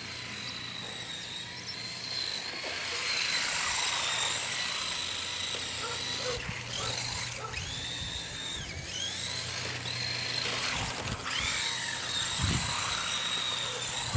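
Radio-controlled car's motor whining at a high pitch, the whine dropping and climbing back up several times in the second half as the car slows and speeds up again.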